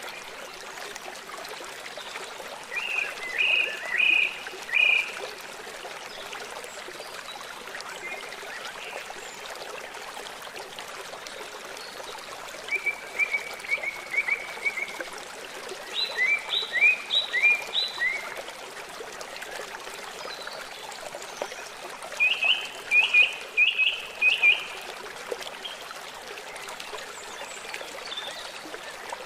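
A small songbird singing several short phrases of quick repeated chirping notes over the steady rush of a flowing stream.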